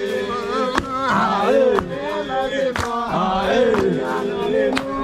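Men singing a rhythmic chant, with a sharp knock about once a second: a pestle pounding roasted coffee beans in a mortar in time with the song.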